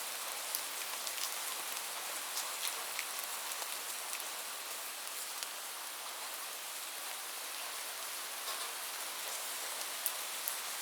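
Steady rain falling, a continuous hiss with scattered sharp drops tapping on a surface.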